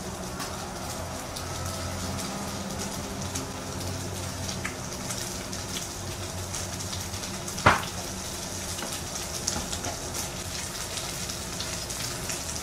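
Food frying in hot oil: a steady sizzle with many small crackling pops, and one sharp knock a little past halfway through.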